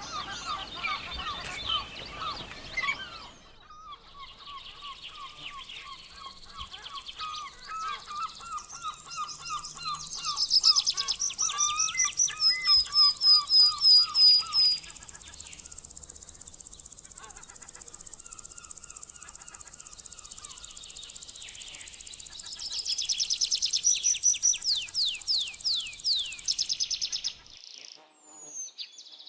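Small birds singing: runs of quick, evenly repeated chirps, with two loud fast high trills, one about ten seconds in and another after twenty-two seconds, over a light outdoor hiss.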